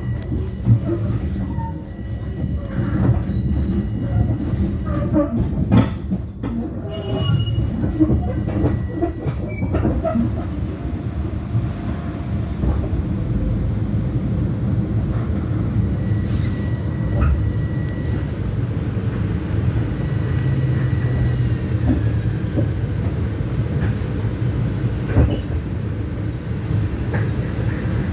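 Long Island Rail Road electric train running along the track, a steady low rumble. In the first third come frequent clicks and short high squeals from the wheels, and later a thin high whine slides lower.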